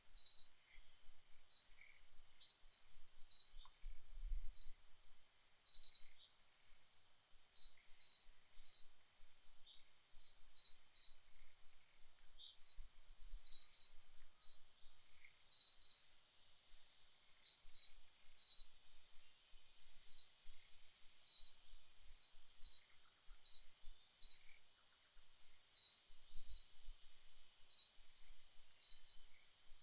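A bird chirping over and over: short high chirps, often two or three in quick succession, about one burst a second, over a faint steady high hiss.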